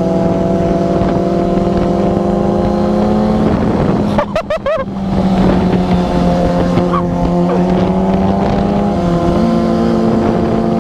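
Motorcycle engine running at steady revs while riding. It breaks off briefly about four seconds in, and its pitch steps up slightly near the end.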